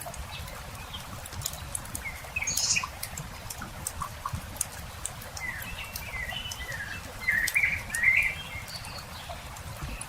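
Campfire crackling with scattered sharp pops over a low rumble, while small birds chirp. There is a short burst of chirps about two and a half seconds in, and a louder run of calls from about five and a half to eight and a half seconds.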